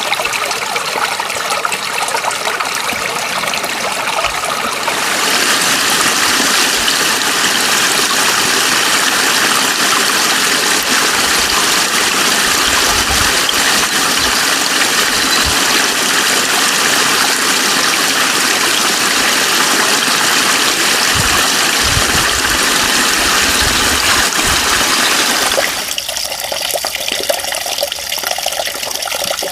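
Steady rush of running water. It grows louder and fuller about five seconds in, and drops back abruptly to a thinner, quieter rush near the end.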